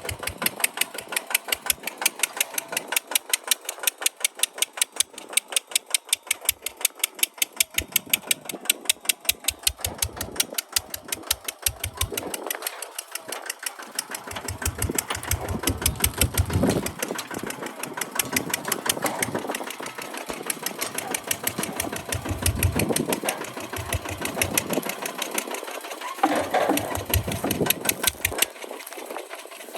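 Kubota tractor diesel engine running with an even, regular beat of firing strokes, with heavier low-pitched sound added from about twelve seconds in until near the end.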